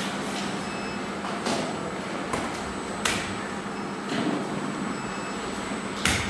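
Factory machinery running with a steady hum and a thin high whine, broken by three sharp knocks or clacks, the loudest near the end.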